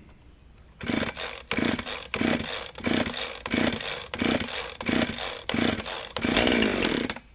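Chainsaw being pull-started with choke and compression release set: about ten quick cord pulls in a row, the engine not catching, then a longer burst of about a second near the end that cuts off. The saw is hard to start, which the owner puts down to it having been run low on fuel.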